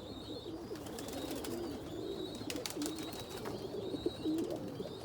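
Domestic pigeons in a loft cooing, many birds overlapping in a steady chorus of low wavering coos. There are a few sharp clicks near the middle.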